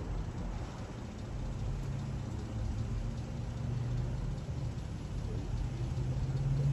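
Steady low hum of an idling motor vehicle engine.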